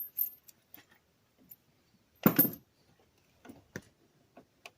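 Hand tools handling: scattered light metallic clicks, with a louder double clank a little over two seconds in, as a socket and ratchet work on the cart's rusty exhaust bolts.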